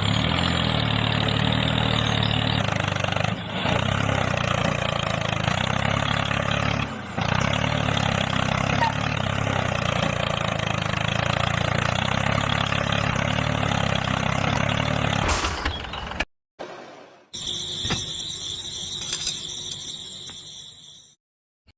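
Motor of a DIY mini tractor with a rotavator, running steadily for about fifteen seconds before it breaks off. After a short silence comes a quieter stretch of running with a steady high whine, which cuts off near the end.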